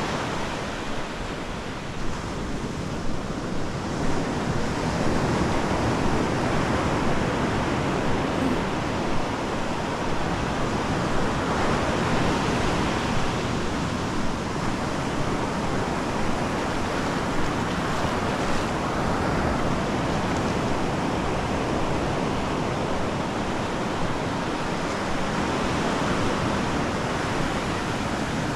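Ocean surf breaking and washing onto a sandy beach: a steady rushing wash that swells and eases gently.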